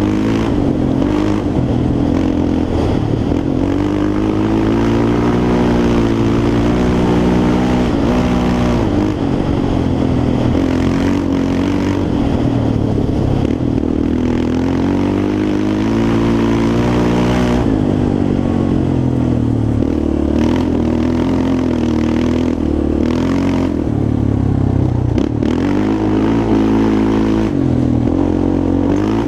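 Yamaha Raptor 350 quad's single-cylinder four-stroke engine being ridden hard, its pitch rising and falling again and again with the throttle.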